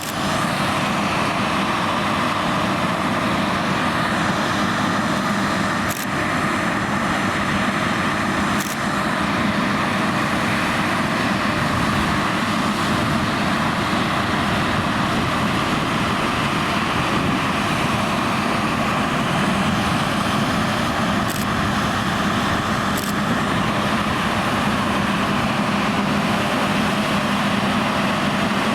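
John Deere X9 1100 combine harvester running steadily under load while combining oilseed rape with its 45 ft draper header, with a few faint clicks.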